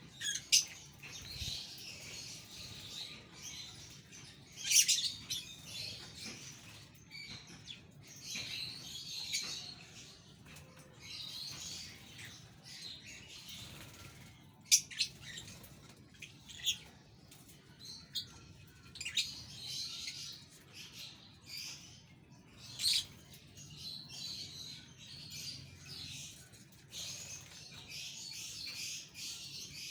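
A flock of budgerigars chattering and chirping continuously, with sharp, louder chirps standing out every few seconds.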